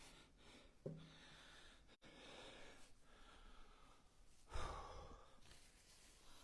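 Near silence with a man's faint breathing and sighing as he exerts himself, and one louder short sound about four and a half seconds in.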